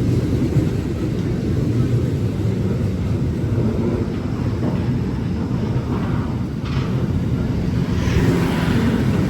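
Train approaching through the station: a steady low rumble that grows a little hissier near the end.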